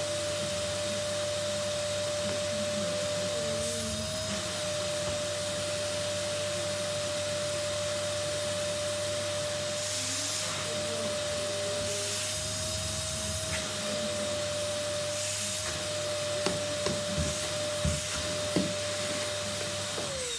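Henry vacuum cleaner running steadily with a constant motor whine, with a few light knocks near the end.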